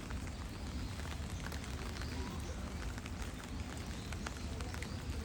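Steady background ambience of a crowd of visitors with faint distant voices, a low steady rumble and scattered light clicks.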